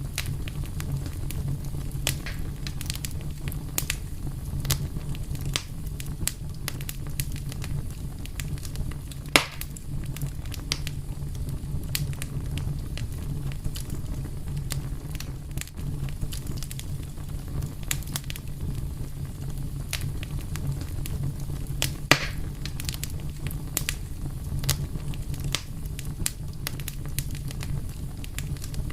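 Fire burning with a steady low rumble and frequent small crackles. Two louder pops stand out, about a third of the way in and about three-quarters of the way through.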